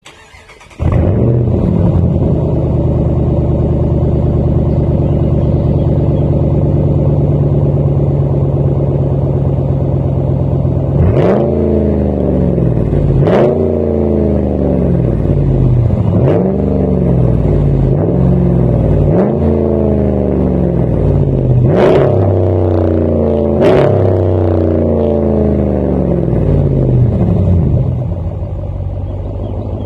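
2014 Ram 1500's 5.7 L Hemi V8 through a muffler-delete exhaust (catalytic converters and resonators kept), idling steadily, then blipped through a string of short revs, each rising and dropping back, before settling to a lower idle near the end.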